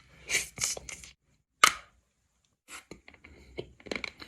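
Crunching bites into frozen wax candy. A few separate sharp crunches come in the first two seconds, then a quicker run of smaller crunches near the end as the hard wax is chewed.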